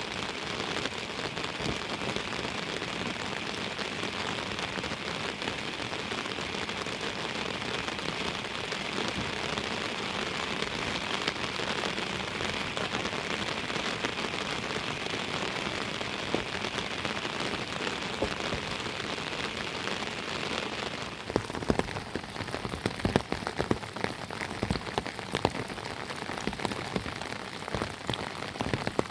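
Heavy rain falling steadily. About twenty seconds in the sound changes to louder, sharper separate drops striking close by.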